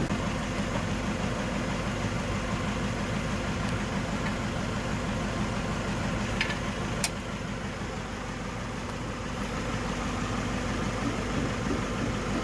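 Toyota 2TR inline-four petrol engine idling steadily. There is a single sharp click about seven seconds in, and the engine note drops a little for a few seconds after it.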